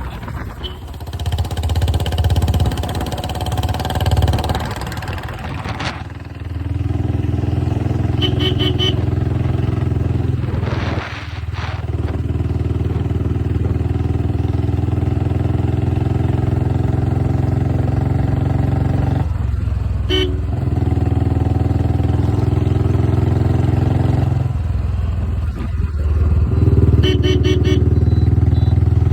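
Old Royal Enfield Bullet 350's single-cylinder engine running loud through a long Punjab bottle silencer on a C-bend exhaust pipe, its level stepping up about six seconds in and again near the end. A horn sounds briefly three times.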